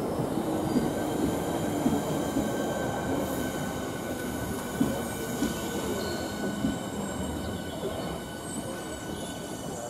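Electric multiple-unit passenger train running slowly at the platform, a rumble of wheels on the rails with a steady high squeal held over it. It grows gradually quieter toward the end.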